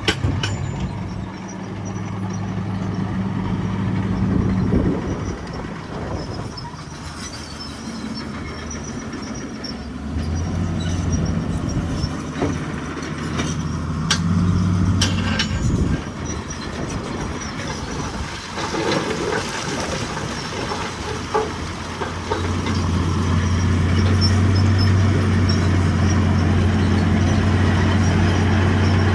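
Heavy construction machine's diesel engine running under varying load. It eases off for a few seconds near the start and grows steady and louder over the last several seconds, with a few sharp metallic clanks in the middle.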